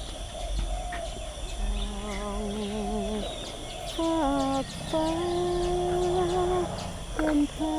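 A voice singing or humming a slow melody in long held notes with a wavering vibrato, stepping down in pitch between notes. Underneath are a steady high insect-like drone and scattered bird chirps.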